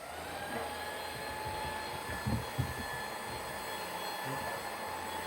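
Vacuum cleaner switched on, its motor spinning up with a rising whine and then running steadily, with a couple of low bumps about two seconds in.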